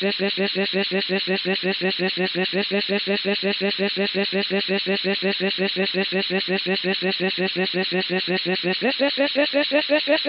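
A loud pitched buzzing trill pulsing evenly at about nine beats a second, stepping up in pitch near the end.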